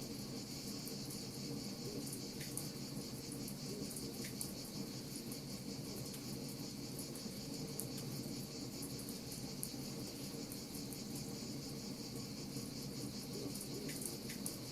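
Wood fire crackling, with scattered sharp pops, over a steady high chirring of crickets and a low steady rush.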